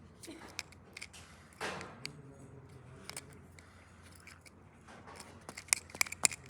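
Handling noise: scattered light clicks and a brief rustle, then a quick run of sharp clicks near the end.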